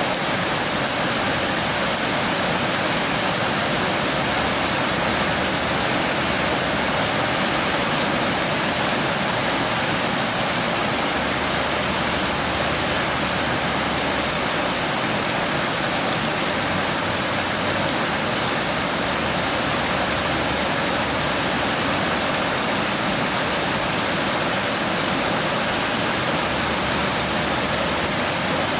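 Heavy rain falling steadily, a dense, even hiss of drops with no thunder and no change in strength.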